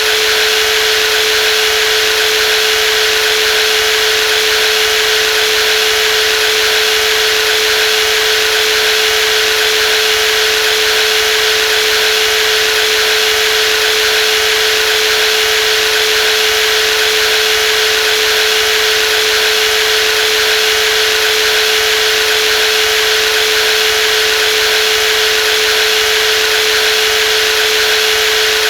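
Brushless jigsaw running steadily, a constant whine over an even buzz with no change in speed.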